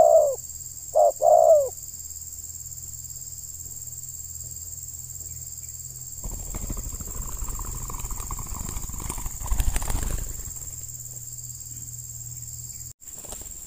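Spotted dove (terkukur) cooing, two short coo phrases in the first two seconds, then several seconds of rustling noise about halfway through, over a steady high insect whine.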